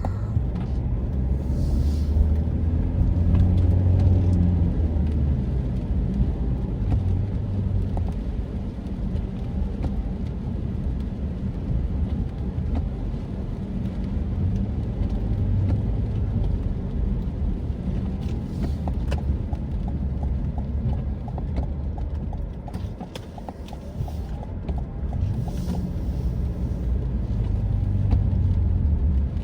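Car driving, heard from inside the cabin: steady engine and road rumble, with the engine note rising and falling as the car pulls out of a U-turn in the first few seconds.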